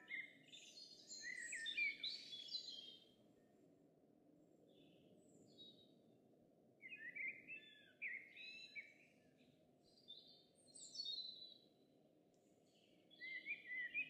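A songbird singing a few short phrases of quick, varied high notes, with pauses of a second or more between them, over a faint steady hiss.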